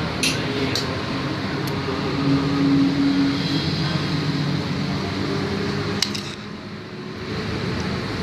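A steady mechanical hum of a running engine or motor, with a few sharp metallic clicks near the start and one about six seconds in, after which the hum drops away briefly.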